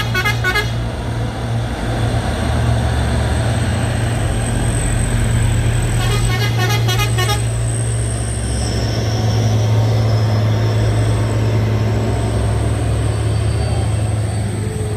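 Heavy truck diesel engine droning steadily under load on the climb, with two short bursts of rapidly pulsing horn toots, one at the very start and one about six seconds in.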